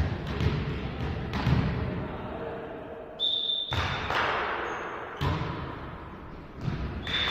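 A volleyball being struck and hitting the floor during a rally, several sharp smacks about a second or more apart, each ringing out in a large hall. A brief high-pitched tone about three seconds in.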